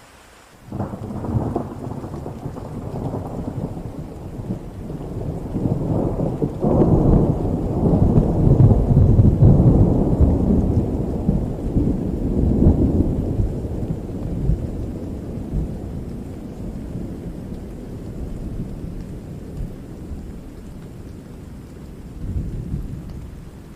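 Rolling thunder over steady rain. A long low rumble starts suddenly about a second in, swells to its loudest near the middle and slowly dies away, and a smaller rumble comes near the end.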